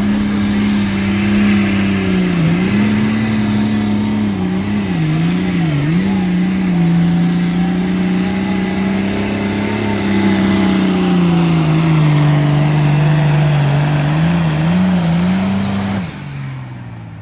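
Competition pulling vehicle's engine held at full throttle down the track, its pitch wavering and dipping several times as it works against the sled, then dropping off abruptly about 16 seconds in as the pull ends.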